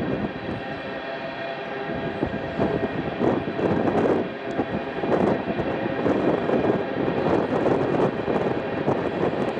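Freight train of tank cars rolling across an elevated bridge: a continuous rolling rumble of wheels on rail that swells and eases, with thin steady whining tones running above it.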